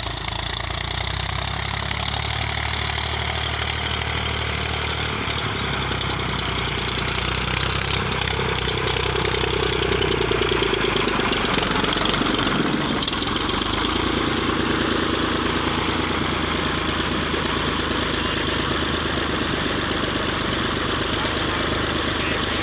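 Escort 355 tractor's diesel engine running steadily, a little louder for a few seconds about halfway through.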